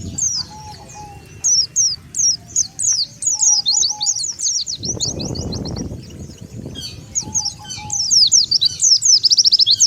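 White-eyes (pleci) calling as a flock: many high, thin, rapid downslurred chirps overlapping, with a fast even trill near the end. A brief low rumbling noise rises and fades about halfway through.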